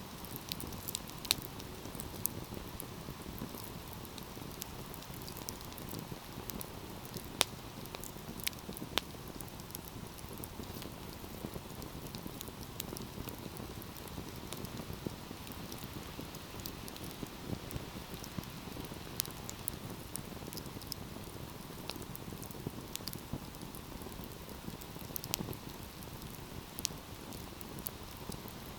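Wood fire burning with a steady low rumble and irregular crackles and pops, a few sharper snaps standing out.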